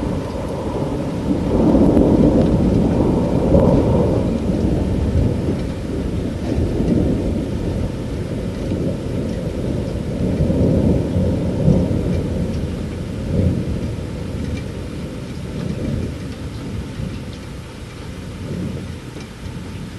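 Long rolling thunder rumbling over steady rain. The rumble swells loudest a couple of seconds in, surges again about halfway through, then slowly dies away.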